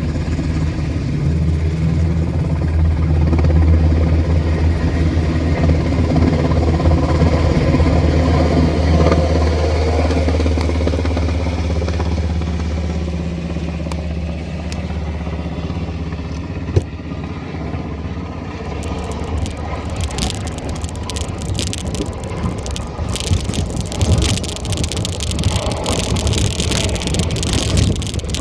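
A steady low engine drone that fades away about halfway through, followed by crackling, rustling noise for the rest.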